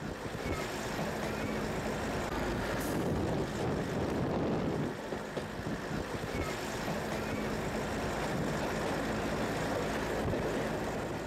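Train running along the track into a station: a steady running noise with a faint low hum.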